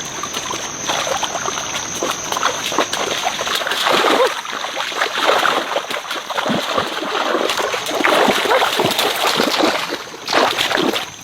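Water splashing and sloshing irregularly, with a steady high-pitched whine running underneath.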